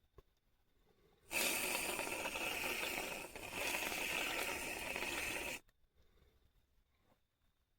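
A loud, steady hiss that starts suddenly about a second in and cuts off sharply about four seconds later, with a brief dip partway through.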